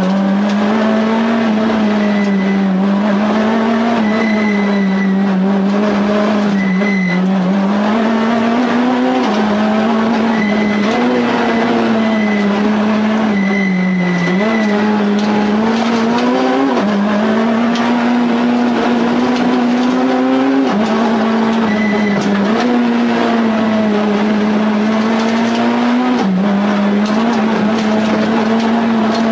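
Citroën C2 R2 Max rally car's four-cylinder engine heard from inside the cabin, running hard high in the rev range. Its pitch drops and climbs again every few seconds with quick gear changes.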